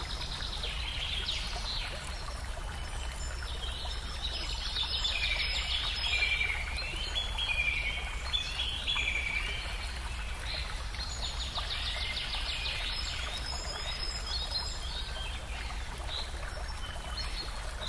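Birds chirping in quick runs of rising and falling trills, over a steady low background hum.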